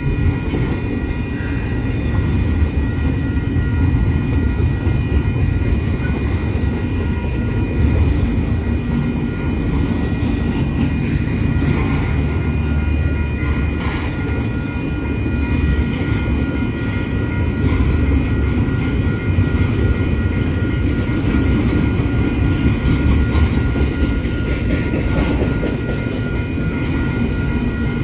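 Double-stack intermodal container train rolling by with a steady low rumble of its wheels on the rails. The level-crossing warning bell rings over it as a string of steady high-pitched dings.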